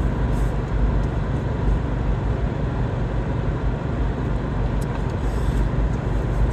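Steady low rumble of a car's engine and tyre noise heard from inside the cabin while driving.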